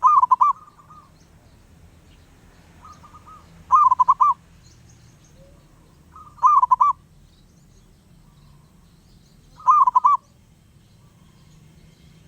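Zebra doves cooing: four loud, short, pulsed coos about three seconds apart, with fainter answering coos between them.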